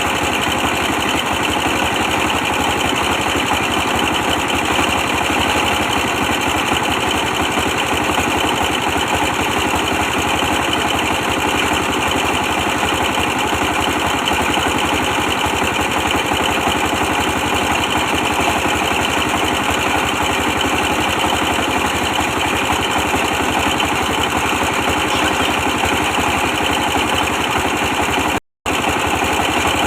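A 24 hp diesel engine running steadily with a fast, even knock, powering a brick press. The sound cuts out for a moment near the end.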